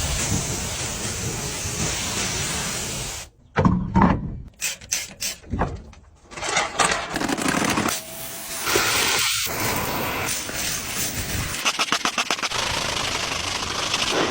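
AI-generated car-wash sound: a pressure-washer-like spray hissing, cut together from several stretches, with choppy stop-start bursts a few seconds in and a run of rapid ticking near the end.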